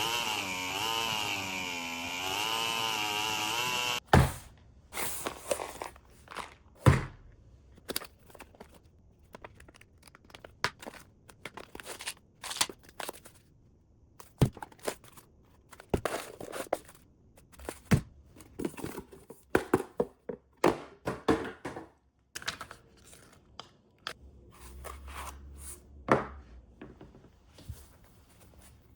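A small engine runs for about four seconds, its pitch wavering up and down, then cuts off abruptly. After that come scattered clicks, knocks and rustling of small parts and packaging being handled.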